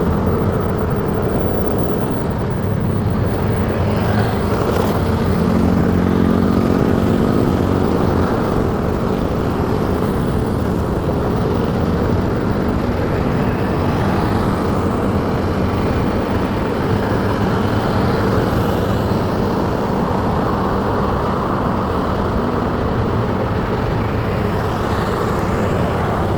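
Motorcycle riding along a city road: steady engine and road noise, with a brief steady engine tone about five seconds in that lasts a few seconds.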